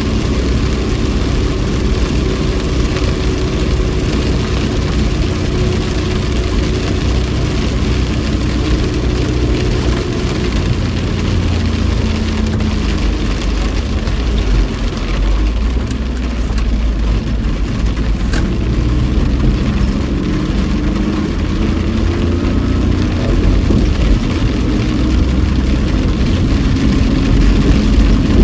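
Car engine and tyre noise heard from inside the cabin while driving on a rain-soaked road, with a steady hiss of rain and spray over the engine. The engine pitch rises near the end as the car accelerates.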